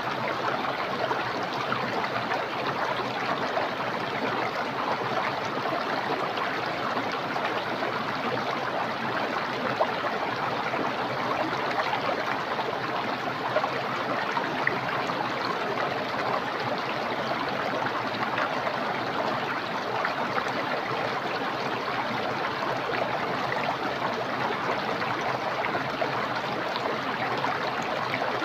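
Small, clear, fast-flowing stream rushing steadily, an even, unbroken water noise.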